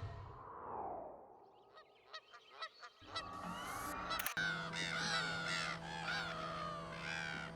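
A flock of birds calling, many overlapping calls crowding in from about three seconds in, after a single falling call and a few faint clicks.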